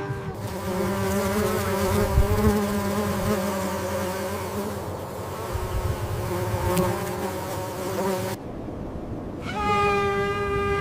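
Steady insect buzzing with a low hum that cuts off suddenly about eight seconds in. After a brief gap, a steady pitched animal call begins near the end.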